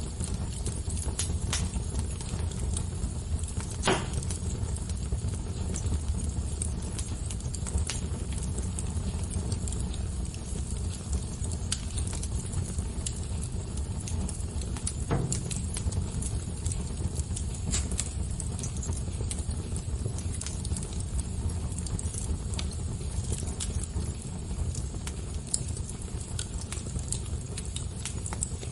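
Wood fire burning with a steady low rumble and irregular crackles, with two louder pops about four seconds in and again near the middle.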